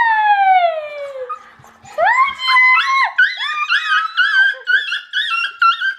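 Dog whining excitedly in greeting. One long falling whine, then from about two seconds in a rapid run of short high whines, about three a second.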